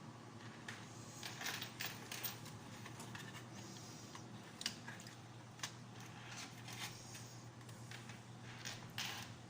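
Scattered light clicks and taps of small parts being handled, about half a dozen, over a faint steady hum.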